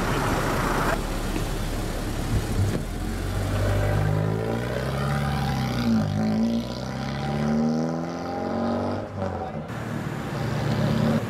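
A modified car's engine revving hard as it pulls away, its pitch climbing and dropping several times from about four to nine seconds in. A truck passes by at the start.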